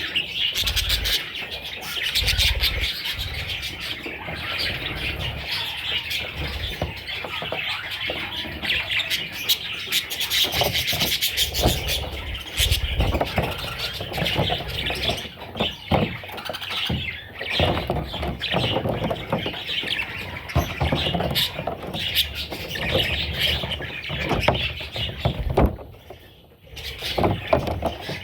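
Budgerigar chicks chirping and squawking in a continuous, busy chatter, with occasional low thumps.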